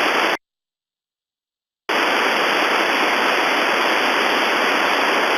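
Steady hiss of radio static on an air-traffic-control frequency, with no reply coming back. About half a second in it drops out to dead silence for about a second and a half, then the hiss resumes.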